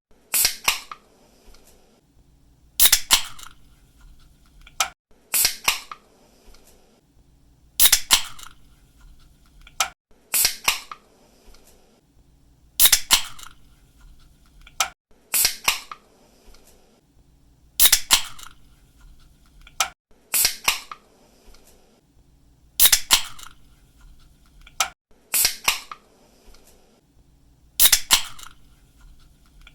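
Pull-tab aluminium drink can being cracked open over and over, about every two and a half seconds: each opening is a sharp double snap of the tab, followed by a short hiss.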